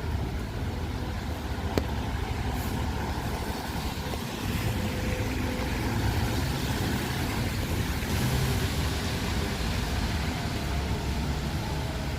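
Road traffic passing on a wet street: a steady rumble of engines and tyres that swells past the middle. A single sharp click comes about two seconds in.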